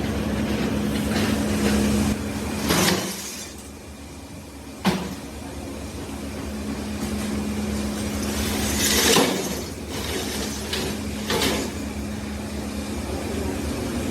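Workshop machinery running with a steady hum that dies away about three seconds in and picks up again about two seconds later. A sharp knock comes just before it restarts, and short bursts of noise like hissing or scraping come three times.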